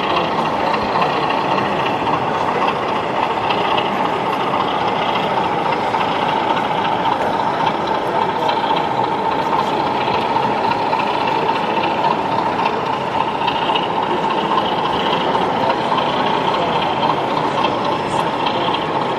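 Steady background din of a busy exhibition hall: many voices blending into a continuous murmur, with the running of model trains mixed in.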